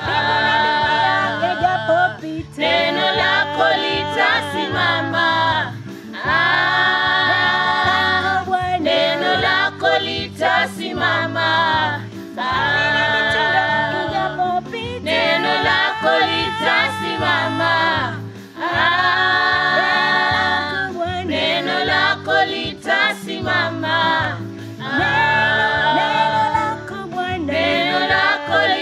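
Congregation or choir singing a Swahili worship song in phrases a few seconds long, with steady instrumental backing.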